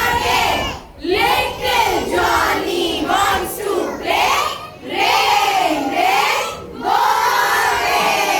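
A group of young children chanting a song loudly together, in phrases a second or two long with short breaks between them.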